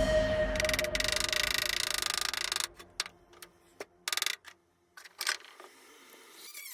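Welder crackling steadily for about two seconds, then a couple of short bursts of crackle with pauses between them, like tack welds on the car's chassis panel.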